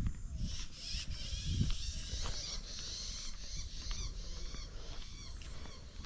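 Birds chirping in a quick, busy run of short high notes that fades out near the end, over low thumps of footsteps on the trail.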